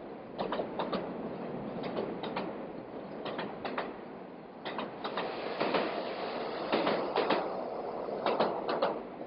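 Freight wagons rolling past on the rails. The wheels clack over a rail joint in groups of two or three knocks about every one and a half seconds, over a steady rolling rumble.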